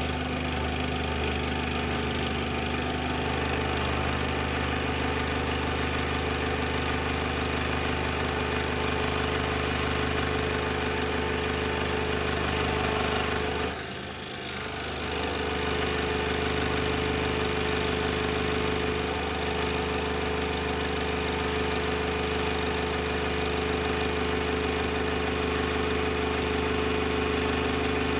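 Scroll saw running steadily as it cuts an inlay piece, a constant motor hum with the blade's rapid stroking. The sound dips briefly about halfway through, then picks up again as before.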